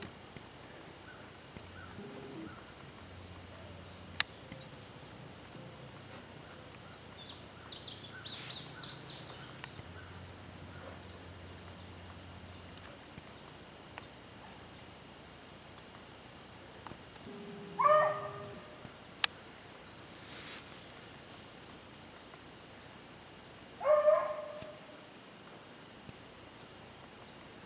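Steady high-pitched drone of insects in woodland, with faint bird chirps and two short animal calls about six seconds apart in the second half.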